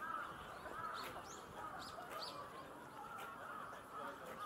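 Small birds chirping: a handful of short, high chirps about a second to two seconds in, over a steady background murmur.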